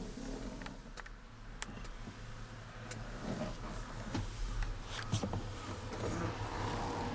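Mitsubishi Fuso Fighter's 8.2-litre diesel engine idling steadily as a low hum, heard from inside the truck, with scattered light clicks and knocks.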